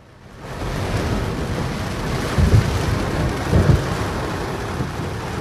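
Heavy storm rain beating on the car, heard from inside the cabin as a dense, steady rush that swells in over the first second. Two deep low rumbles stand out, about two and a half and three and a half seconds in.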